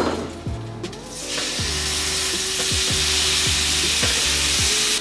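Chicken pieces sizzling in hot olive oil in a frying pan. The sizzle swells about a second in and then holds steady.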